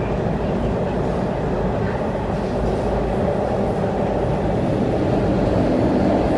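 MTR Tuen Ma Line C-Train, a CRRC Changchun electric multiple unit, running along the track, heard as a steady rumble of wheels and motors inside the carriage. It grows a little louder toward the end.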